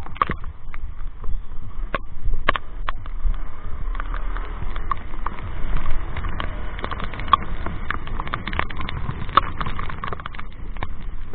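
Raindrops tapping irregularly on a motorcycle rider's helmet-mounted microphone, over a steady low rumble of wind and riding.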